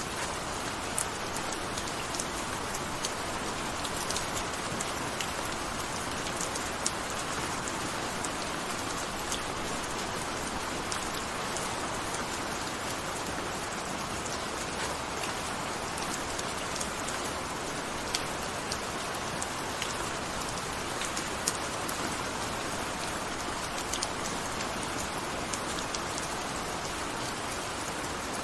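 Gentle steady rain, a continuous even hiss with scattered individual drops ticking sharply on a nearby surface.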